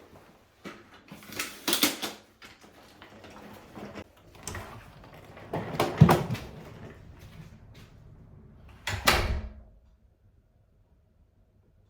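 Irregular knocks and rustles of things being handled, loudest about two, six and nine seconds in.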